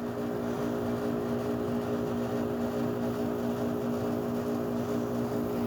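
Steady mechanical drone of a running motor or engine, holding several fixed pitches without change.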